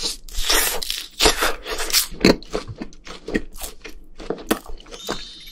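Close-miked biting and chewing of a skewer of rice cake and sausage (sotteok) dusted with Bburinkle seasoning: many irregular short, sharp clicks of mouth sounds.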